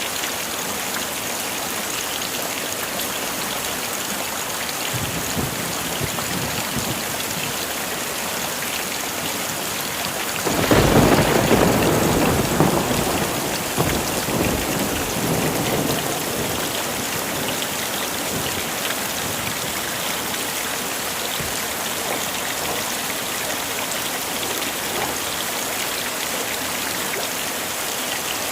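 Heavy rain falling steadily. About ten seconds in, a thunderclap breaks out suddenly and rumbles on for about five seconds before fading back under the rain.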